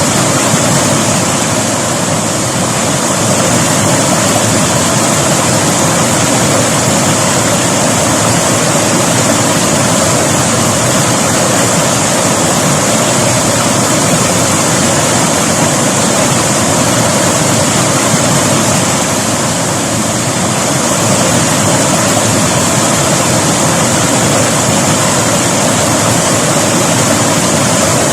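River water flowing steadily: a loud, even rush.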